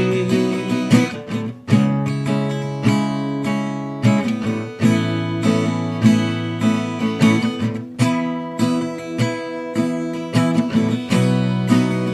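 Acoustic guitar strumming chords, changing chord about every two seconds, in the instrumental break of a worship song.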